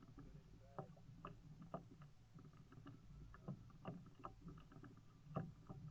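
Faint kayak paddling: irregular small knocks and splashes of the paddle in the water and against the hull, the sharpest knock near the end.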